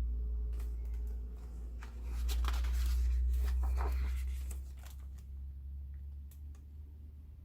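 Paper rustling and a few light clicks as a picture book's page is handled and turned, over a low rumble of handling noise.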